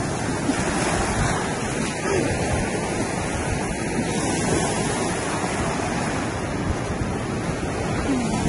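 Ocean surf washing on a beach: a steady, even rush of water noise, with some wind buffeting the microphone.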